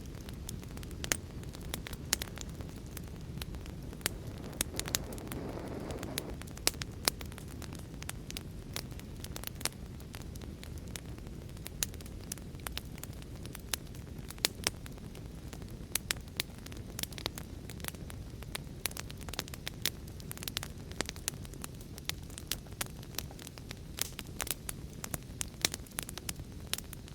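Wood fire crackling: a steady low rumble of burning with frequent sharp, irregular pops and snaps, and a brief swell of hissing flame about five seconds in.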